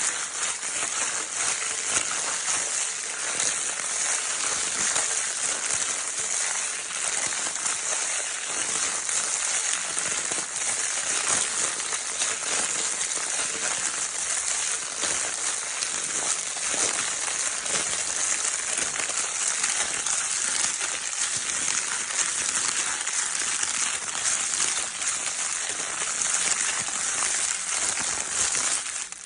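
Crinkle paper of a baby's crinkle toy being scrunched and rustled continuously, a dense steady crackling.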